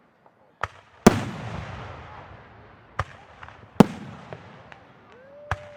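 Aerial fireworks bursting in a public display: about five sharp booms at uneven spacing, the loudest about a second in, each trailing off in a rumbling echo. Near the end a faint tone rises and then holds.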